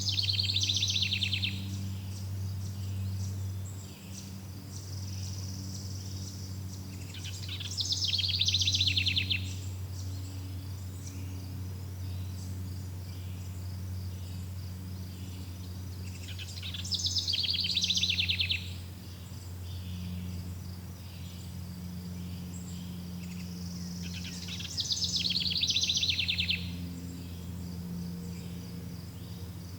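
A forest songbird repeating a short, rapid trilling phrase four times, about every eight seconds, over a steady background of chirping crickets and a low steady hum.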